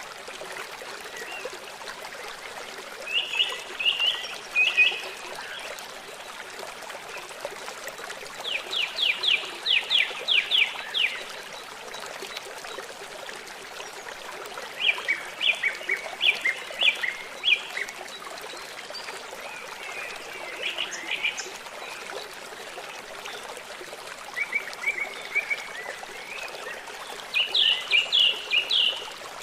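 Songbirds singing short phrases of rapid repeated notes, about six phrases spaced a few seconds apart, over the steady rush of trickling running water.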